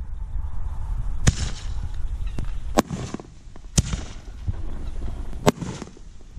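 Consumer fireworks going off. There are four sharp bangs a second or more apart, each trailing off, with fainter pops in between.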